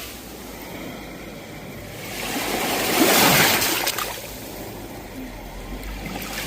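Sea waves breaking on a shore: one wave swells and crashes about halfway through, then washes back, and the next begins to build near the end.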